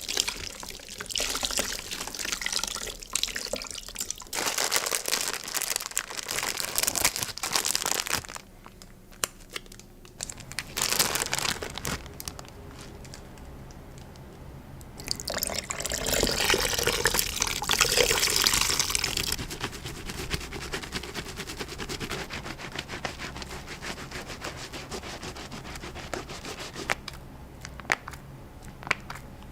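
Hands being washed at a sink: wet hands rubbing and lathering soap under tap water, with a louder rush of water about halfway through and softer crackling, squishing lather in the last part.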